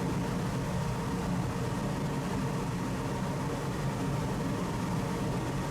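Passenger ferry's engines droning steadily, a constant low hum with a rushing noise over it.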